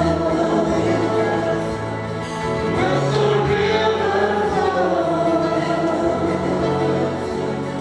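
Voices singing together in a gospel-style worship song, holding long notes over a steady bass accompaniment.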